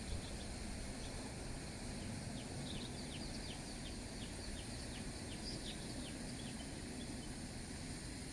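A bird calling a quick run of short, high, downward-sliding notes, about three a second, over a steady low outdoor rush.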